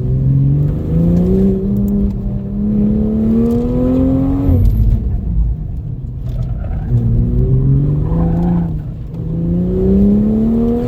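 2020 Toyota Supra's turbocharged inline-six accelerating hard, its pitch climbing steadily for about four seconds, then dropping sharply. It climbs again twice more, each climb broken by a sudden fall as the driver lifts or brakes.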